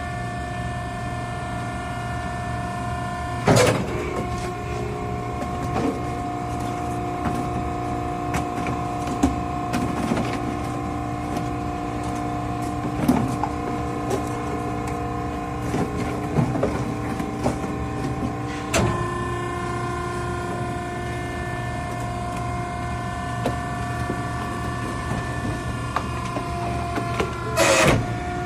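Maren cardboard baler's hydraulic power unit running with a steady whine over a low hum, broken by a few sharp clanks. At one of the clanks, about two-thirds of the way through, the whine's pitch shifts.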